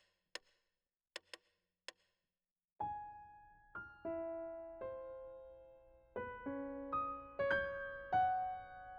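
A few short, faint clicks, then from about three seconds in a slow melody of single piano-like keyboard notes, each struck and ringing away, some overlapping.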